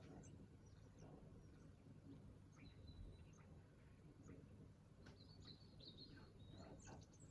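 Faint songbirds chirping: scattered short high calls, with a quick run of notes about five to six seconds in, over a low steady background rumble.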